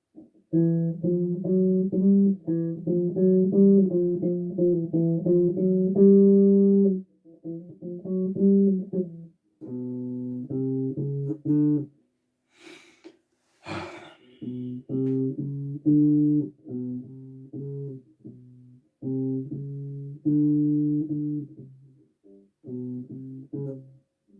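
Bass guitar played solo, short phrases of plucked notes with brief pauses between them, and a short burst of noise about halfway through.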